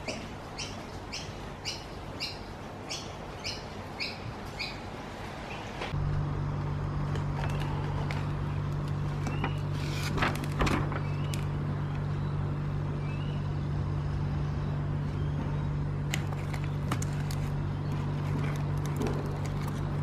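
A bird chirps over and over, about two short calls a second, over a soft hiss of rain. About six seconds in, this gives way to a steady low hum with the crackle and rustle of a paper doughnut box being handled and a doughnut lifted out.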